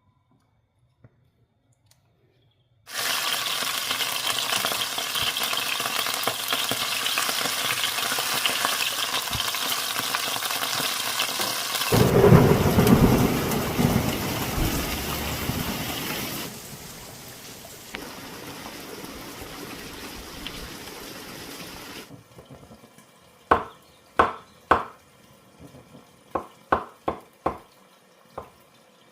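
Heavy rain pouring steadily during a thunderstorm, with a loud roll of thunder about twelve seconds in, after which the rain is quieter. Near the end come a few short sharp clicks.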